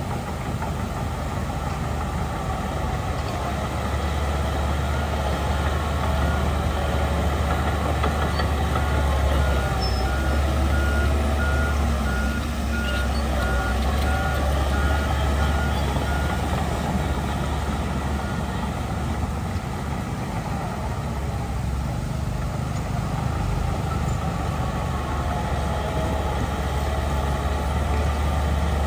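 Heavy diesel earthmoving machinery running steadily under load. About six seconds in, a reversing alarm starts beeping in an even series and carries on for about ten seconds, the sign of a machine backing up.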